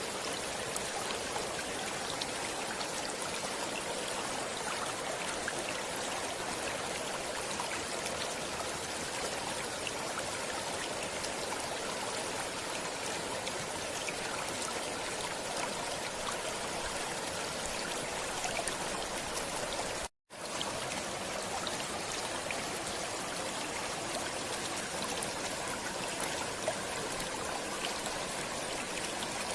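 Stream water running steadily, with a momentary cut to silence about two-thirds of the way through.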